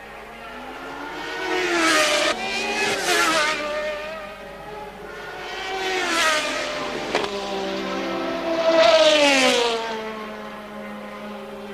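1983 Formula One cars passing one after another, about four in turn. Each engine note rises, peaks and drops in pitch as the car goes by.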